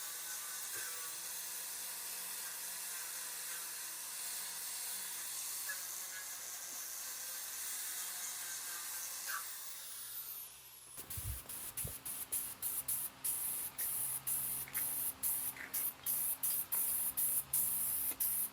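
Paint being sprayed: a steady hiss for about ten seconds, then many short spray bursts in quick succession, with a couple of dull knocks as the bursts begin.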